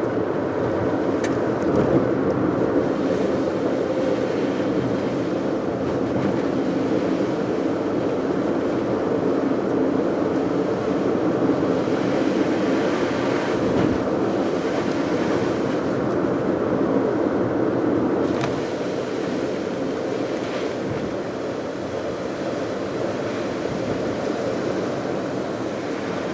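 Car driving on a wet road: steady engine and road noise with the hiss of tyres on rain-soaked tarmac, dropping a little about two-thirds of the way through.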